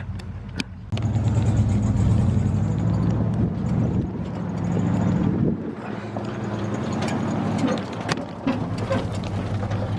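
Truck engine running hard off-road. It gets louder about a second in, eases off briefly about halfway through, then pulls again, with scattered knocks and rattles.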